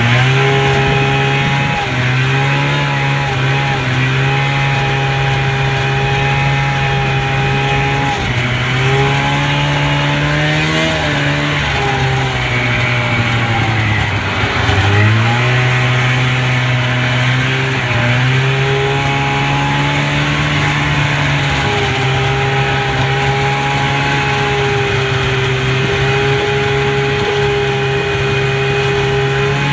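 Polaris Indy Lite snowmobile's fan-cooled two-stroke twin running steadily under throttle on a trail ride. The engine note dips and climbs back several times, most deeply about halfway through.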